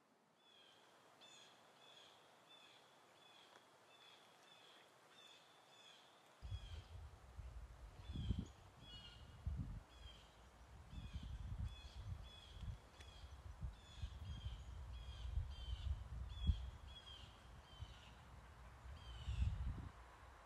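A bird calling over and over in short, sharp notes, about two a second, each with a quick downward sweep. From about six seconds in a low, irregular rumble runs under the calls.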